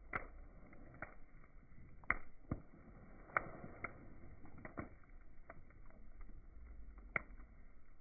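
Campfire crackling: irregular sharp pops and snaps of burning wood, a few louder ones standing out, over a soft low rush of the fire.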